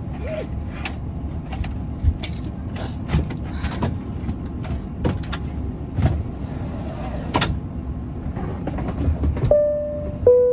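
Steady aircraft-cabin background noise with scattered clicks and knocks of handling, then near the end a two-tone high-low cabin chime, the interphone call to a crew station.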